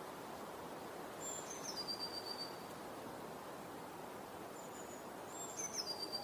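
A bird calling twice, each call a high whistle that steps down in pitch, about a second in and again near the end, over a steady outdoor background hiss.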